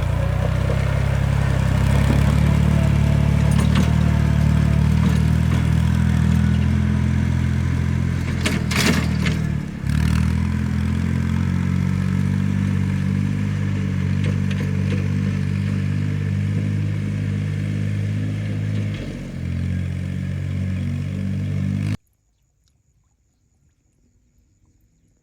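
An engine running steadily at a constant speed, with a brief clatter about nine seconds in. The engine sound cuts off abruptly near the end, leaving near silence.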